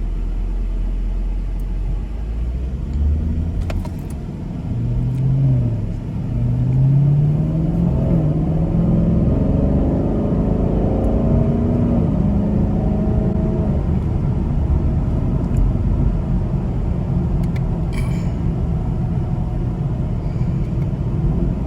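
Chevrolet Camaro's engine accelerating as the car pulls away, its pitch rising once briefly and then again in a longer climb, before settling into a steady run with low road rumble.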